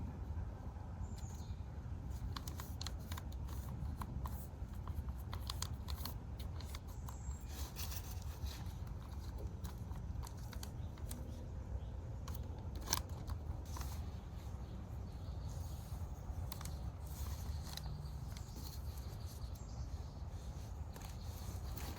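Scattered small clicks and snips of close-up handling over a low steady rumble, with a few sharper clicks, one of the loudest about thirteen seconds in.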